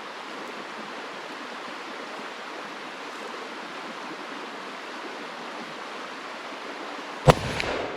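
A single big-bore handgun shot about seven seconds in, sharp and loud with a brief ringing tail, over a steady rushing background noise.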